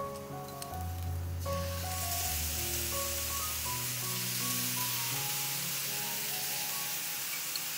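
Vegetable pieces sizzling in oil in a hot frying pan, the sizzle growing louder about a second and a half in and then holding steady, under soft piano background music.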